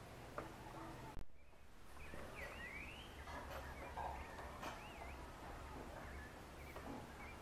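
Scrub euphonia calling: short, thin whistled notes that waver up and down, a few together about two seconds in and another near the middle, over a low background rumble. The sound drops out briefly about a second in.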